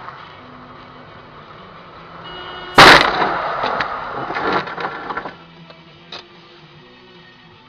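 Car collision: a sudden loud bang of impact about three seconds in, followed by crunching and clattering of breaking parts for about two and a half seconds.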